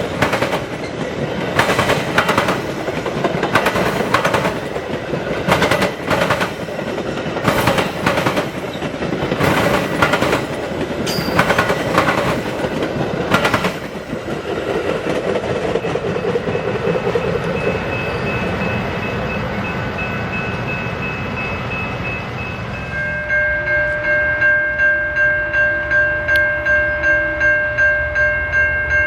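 A train rolling past, its wheels clicking sharply over rail joints, then a steadier rolling rumble. About three-quarters of the way in, a loud ringing of several pitches starts, pulsing about twice a second.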